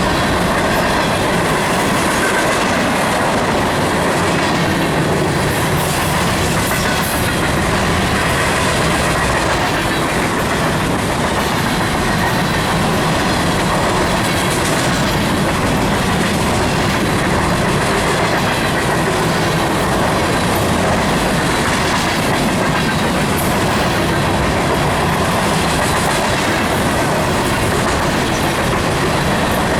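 Empty grain hopper cars rolling past at speed: a steady rush of steel wheels on rail with clickety-clack from the wheels crossing rail joints.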